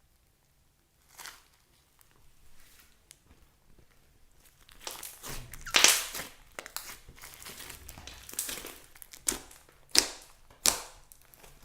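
Slime being squeezed and worked by hand, making crackling, crinkling noises that start a few seconds in and peak about halfway through. Three sharp pops or snaps come near the end.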